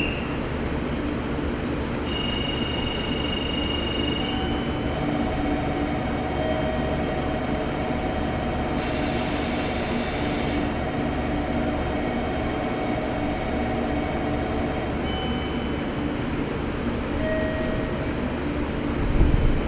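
A train at a station platform: a steady low running hum with faint high squealing tones that come and go, and a two-second burst of high hiss about nine seconds in.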